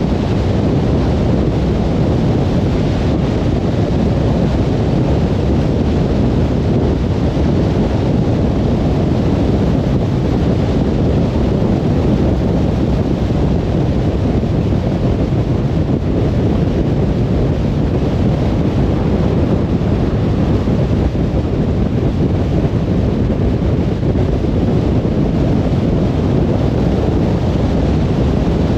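Car travelling at speed on a motorway: a steady, even rumble of tyre and wind noise, deep and unchanging throughout.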